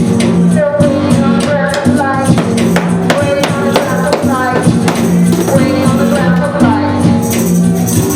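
Live band music with a tambourine keeping time, steady low sustained notes underneath and a voice singing over them.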